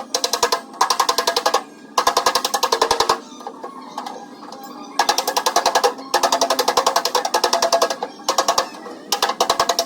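Body hammer tapping rapidly on the sheet-metal door panel of a Ford Ranger, about ten ringing blows a second in runs of one to two seconds, working out a dent. It pauses briefly near the middle.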